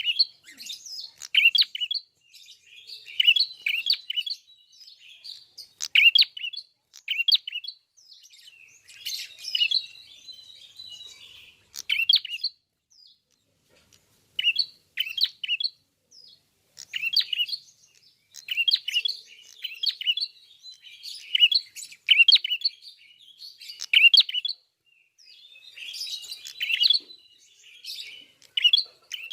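Ashy tailorbird (prenjak kepala merah) singing continuously in full song: short, sharp, high chirp phrases repeated about once a second, with a brief lull about halfway through.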